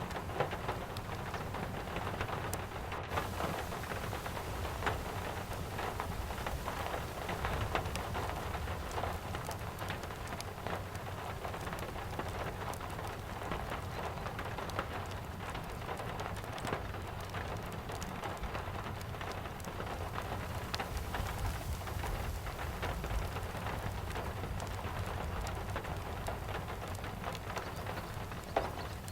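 Steady rain falling, with many small crackles and pops from a wood fire in a fireplace scattered through it over a low, steady rumble.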